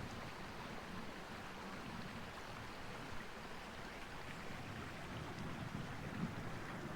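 A steady, even rushing noise, without pitch or distinct knocks.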